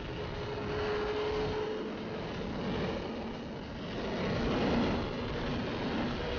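Sport motorcycle engine running at road speed, its note holding steady and then shifting and swelling about four seconds in, under heavy wind noise on the microphone.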